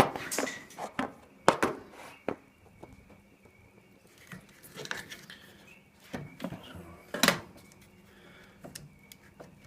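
Scattered clicks and knocks of hard plastic and metal parts being handled as a washing machine's door lock is taken out, a handful of sharp taps spread over several seconds.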